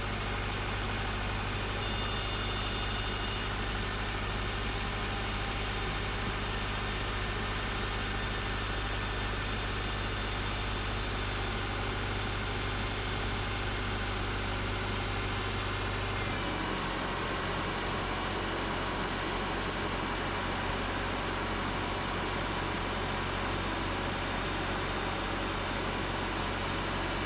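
2009 Subaru Outback engine idling steadily at a raised idle with the A/C running while the system is charged with refrigerant; the running note changes abruptly partway through.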